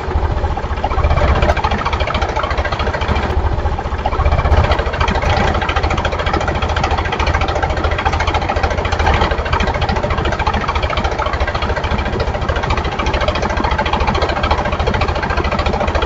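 Tractor engine running steadily at idle with a fast, even chugging.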